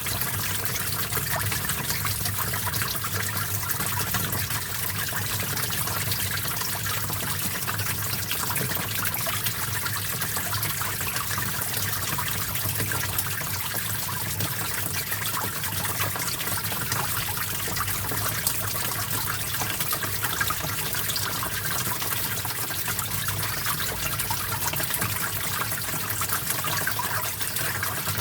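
Small stream flowing and trickling steadily, a continuous splashy babble of running water.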